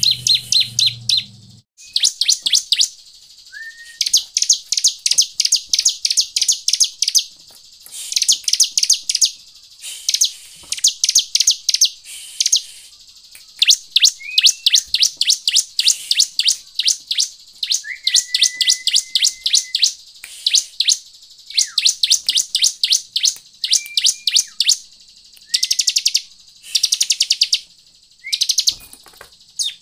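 Bar-winged prinia (ciblek) calling: fast trains of sharp, high, repeated chip notes in bursts of a second or two with short breaks. A few thin whistled notes are mixed in, one held flat for about two seconds past the middle.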